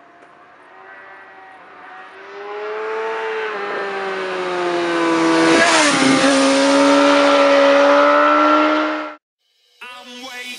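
Suzuki GSX-R750 K7 sportbike's inline-four engine growing louder as it approaches, its pitch dropping as it passes close by, then cut off abruptly about nine seconds in. Electronic music starts near the end.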